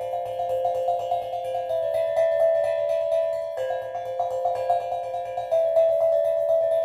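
Steel drum played in a quick run of struck notes, about four a second, each ringing on so that the notes overlap; the set of pitches shifts a little past halfway.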